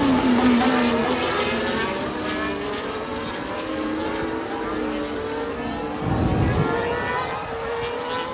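Formula One cars' turbocharged V6 engines at racing speed, several engine notes overlapping and falling in pitch as cars go past. A louder, fuller pass comes about six seconds in, and rising notes follow as cars accelerate away near the end.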